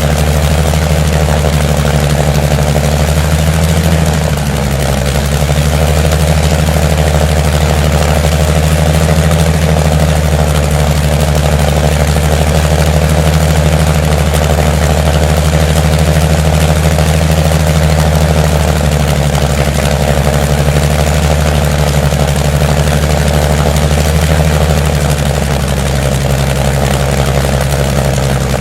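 An engine idling steadily, its running speed shifting slightly about four seconds in and again near the end.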